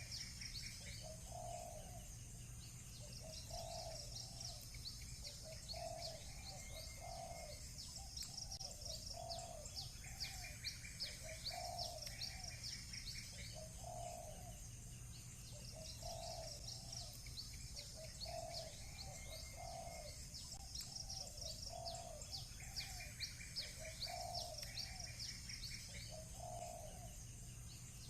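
Doves cooing over and over, a soft low coo every second or two, while small birds chirp in quick high runs with occasional trills.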